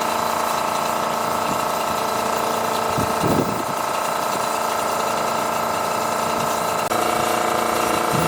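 A motor running steadily at constant speed, with a brief rougher patch about three seconds in and a short break with a slight change in tone near the end.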